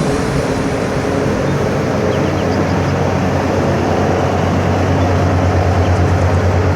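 A ship's or tugboat's diesel engine running steadily, with a deep hum and a fast, even throb.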